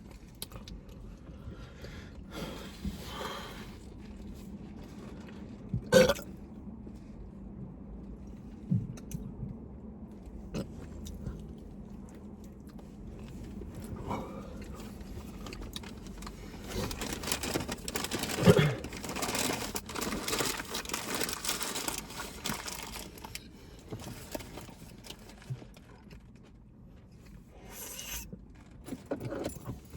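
Sandwich eating: quiet chewing and mouth noises with scattered short knocks and rustles, busier for several seconds past the middle.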